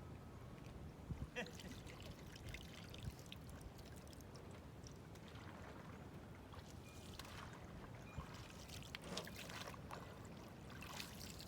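Faint, irregular splashing and dripping of pond water as a small mop is used as an oar beside a canoe.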